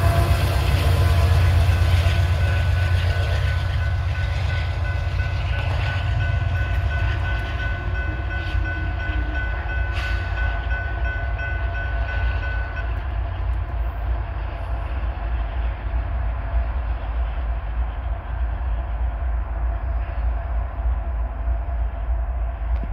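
A freight train of coal hopper cars rolling past: steel wheels rumbling on the rails, slowly fading as the train goes by. A steady high squeal sounds over the rumble and stops about halfway through.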